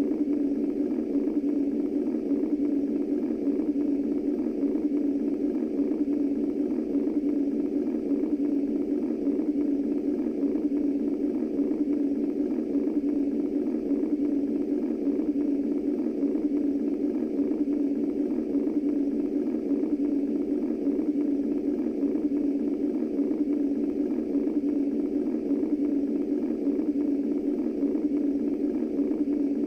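Steady womb-style white noise: a constant low rushing hum centred in the low-mid range, unchanging throughout.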